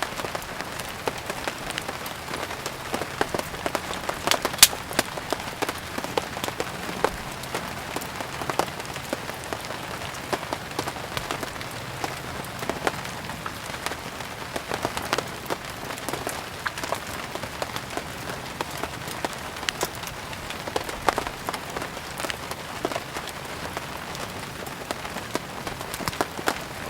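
Steady rain mixed with firewood burning: an even hiss of falling rain with many sharp crackles and pops, the loudest about four and a half seconds in.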